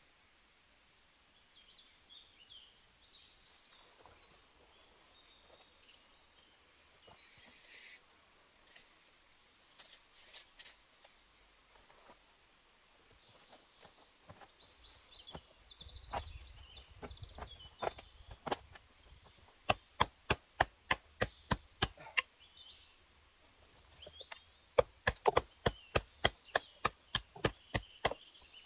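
Two quick runs of sharp, evenly spaced knocks, about four a second, as of chopping or hammering on wood, with birds chirping throughout.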